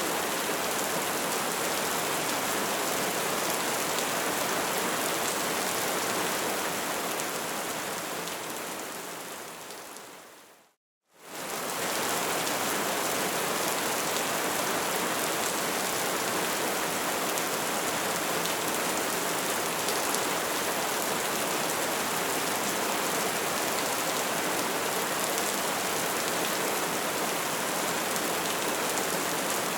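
Crackling bonfire: a dense, steady crackle and hiss of burning wood. About six seconds in it fades away to brief silence near eleven seconds, then comes straight back at full level.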